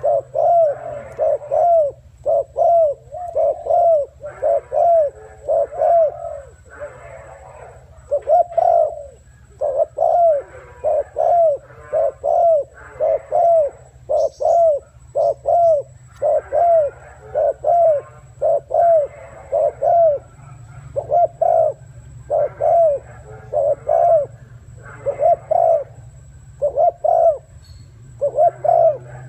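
Spotted dove cooing over and over in loud phrases of arched, hollow notes. A steady low hum runs underneath.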